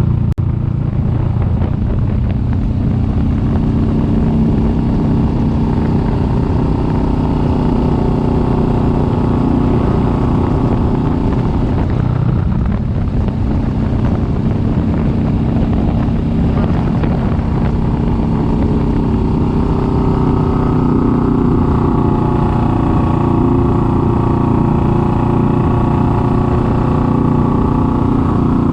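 Kawasaki Vulcan S 650's parallel-twin engine running steadily under way. Its note drops briefly about twelve seconds in and sits higher from about twenty seconds in as the bike picks up speed.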